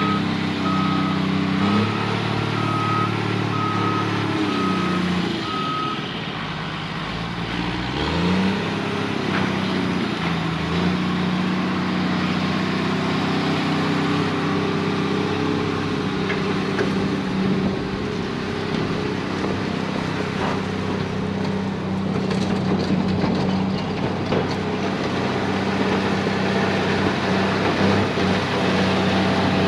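Diesel engine of a heavy earthmoving machine running under load, with a reversing alarm beeping steadily for about the first six seconds. The engine note dips around six to eight seconds in, then climbs back and runs steadily.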